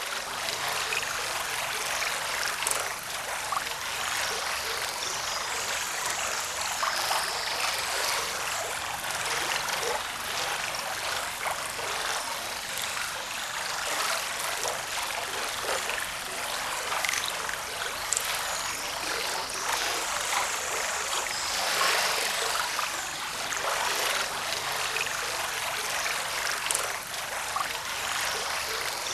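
Forest river flowing: a steady rush of water with many small splashes and trickles.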